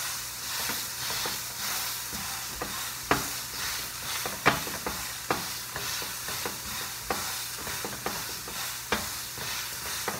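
Pork cutlets sizzling as they fry in a pan on medium heat. Several sharp clicks of a utensil against the pan sound over the hiss, the loudest about three and four and a half seconds in.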